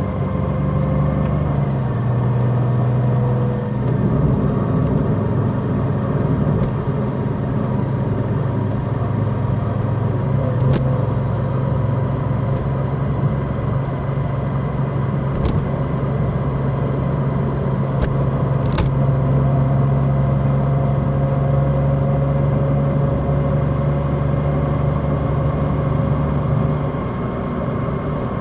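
Large motorcycle's engine running steadily under way, its pitch dropping a little about two seconds in and easing up again later, with a faint whine above it and a few brief clicks.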